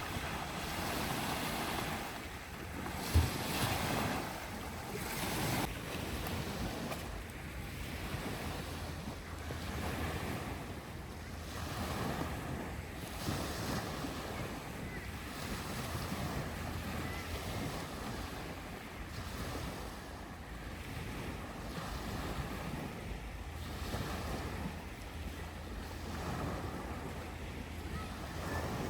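Sea waves washing onto the shore, swelling and fading every couple of seconds, with wind rumbling on the microphone. A single sharp knock sounds about three seconds in.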